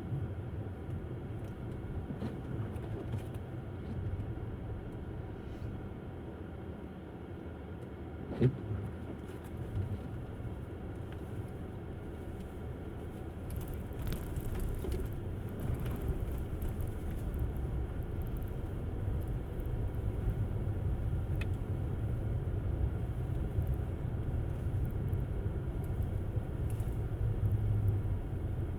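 Electric Tesla Model S driving on snowy roads: a steady low rumble of tyres and road noise with no engine note. There is one sharp knock about eight seconds in, and the rumble grows a little louder towards the end.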